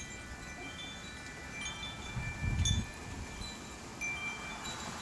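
Wind chimes ringing irregularly in the breeze, several notes struck and left to ring. A brief low rumble comes about halfway through.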